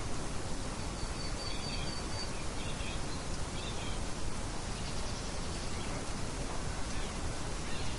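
Nature ambience of birds chirping: a few faint, short bird calls, mostly in the first half, over a steady rushing hiss.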